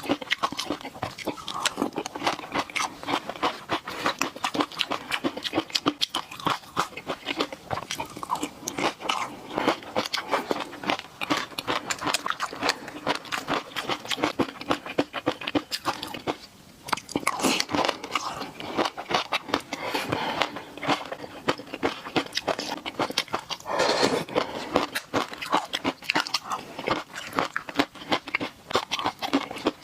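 Close-miked eating: continuous rapid chewing with crisp clicking and crunching as fish roe sauce is bitten and chewed, pausing briefly a little past halfway.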